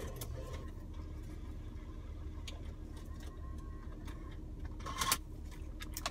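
Steady low hum of an idling car engine heard inside the cabin, with a few faint clicks and one short, sharper noise about five seconds in.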